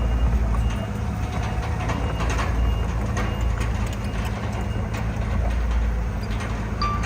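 Heavy diesel engine of earthmoving machinery running steadily, with scattered knocks. A single short high beep sounds near the end.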